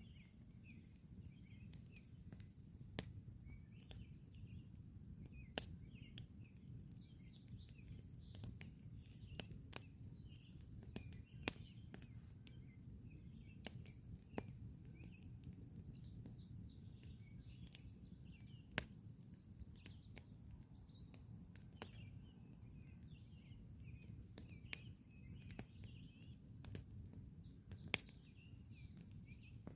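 Campfire crackling: sharp pops of burning wood at irregular intervals, the loudest a couple of seconds before the end, over a low steady rumble. Small birds chirp in the background.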